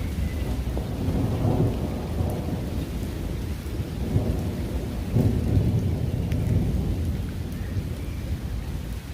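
Rain falling, with a deep rumble underneath that swells twice, about a second in and again around the middle, and a few sharp drips.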